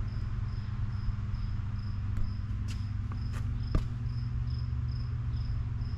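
An insect chirping steadily, short high chirps about twice a second, over a low steady hum, with a few light clicks.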